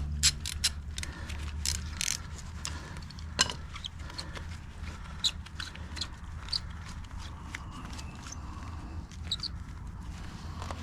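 Scattered light metallic clicks and clinks of a wrench loosening nuts on a winch cable fitting, over a steady low hum.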